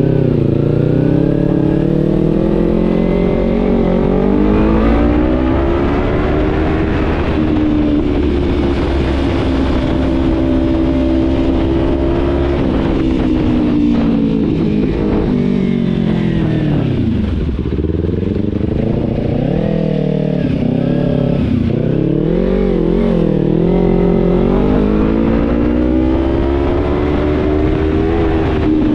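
Kawasaki Z300 parallel-twin engine under way, its revs rising and falling as the bike accelerates, shifts and slows. The revs drop low a little past halfway, then climb again with a few quick throttle blips.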